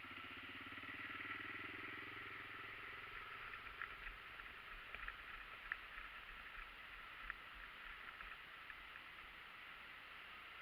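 Dirt bike engine running faintly at a distance, its sound fading away over the first few seconds.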